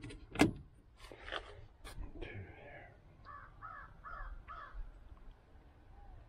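A bird calling four times in quick succession, about three seconds in. A sharp click comes just before, near the start.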